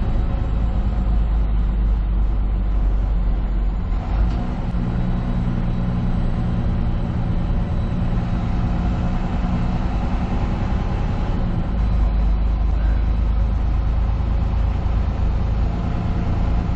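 Semi truck's diesel engine and tyre noise droning steadily, heard inside the cab while driving at highway speed, with a brief knock about four seconds in.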